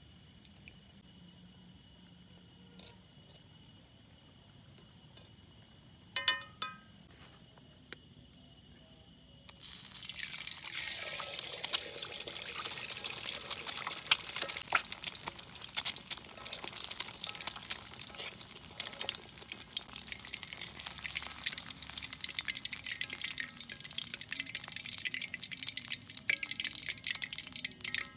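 Food sizzling and spitting in a hot pan over a campfire, starting suddenly about a third of the way in and going on densely with many sharp crackles. Before that, a steady high chirring of insects, broken by a short ringing sound about six seconds in.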